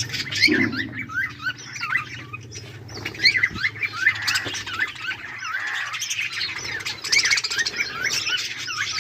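A flock of budgerigars chirping together, with many short, quick chirps overlapping without a break.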